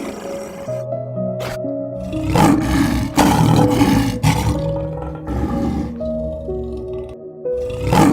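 An animal roaring over background music: a long, loud roar from about two to four and a half seconds in, and a shorter one near the end.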